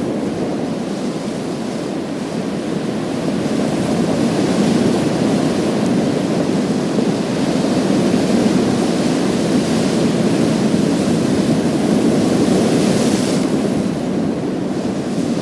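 Sea waves washing onto a pebble beach: a continuous low surf rumble, with the hiss of water draining through the stones swelling up several times.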